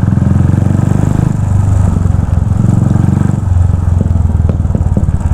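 Royal Enfield Continental GT 535's single-cylinder engine running loud through a custom exhaust, a rapid steady train of exhaust pulses at low revs; the note eases off a little just past three seconds in.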